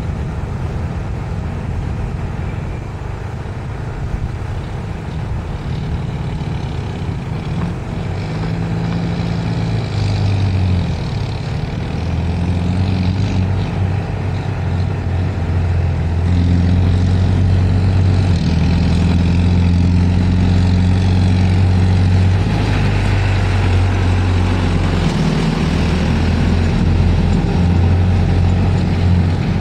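Claas Celtis 436 tractor's diesel engine running steadily, its pitch stepping up and down a few times and getting louder about halfway through.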